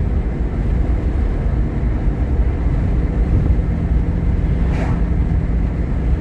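Steady low rumble of a vehicle driving, road and engine noise heard from inside the cabin, with a brief rushing sound near the end.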